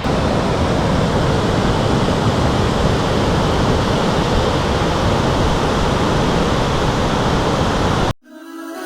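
Loud, steady rush of the Siebenbrunnen karst waterfall, water pouring straight out of the mountainside. It cuts off suddenly shortly before the end, where music begins.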